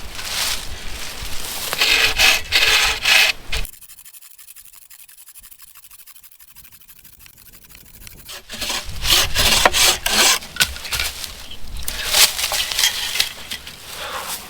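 Hand saw cutting firewood, with repeated rasping strokes. The strokes stop abruptly about four seconds in and pick up again about four seconds later.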